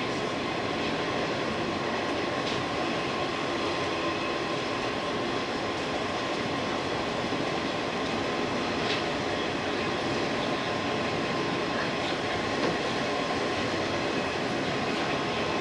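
JR 185 series electric train running, heard from its driving cab: steady rolling and running noise with a steady high tone.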